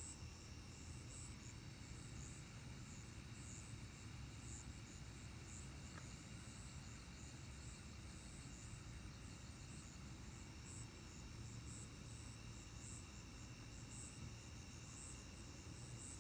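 Faint chorus of night insects: steady high trills, with a higher pulsing call repeating every second or two, over a low steady hum.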